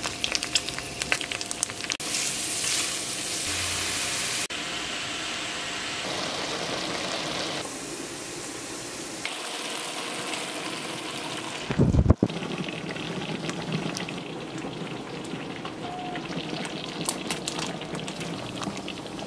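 Cooking sounds over a string of short clips: minced garlic sizzling in hot oil in a frying pan, then spaghetti sauce being poured onto browned ground pork in a pot and sliced hot dogs tipped into the sauce. The sound changes abruptly at each cut, and a brief low thud comes about two-thirds of the way through.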